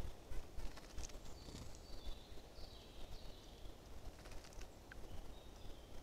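Faint distant forest birds calling, a few thin high notes mostly in the first half, over low irregular thumps and rumble on a trail camera's microphone.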